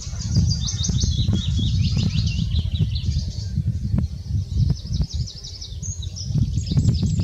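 Small songbirds singing rapid, high-pitched twittering phrases and trills, thinning out in the middle and picking up again near the end, over a steady low rumble.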